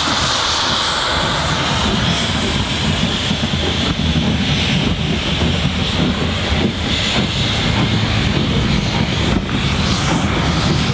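Steam locomotive running with a train: a loud, steady low rumble and hiss, with repeated exhaust and rail beats from about four seconds in.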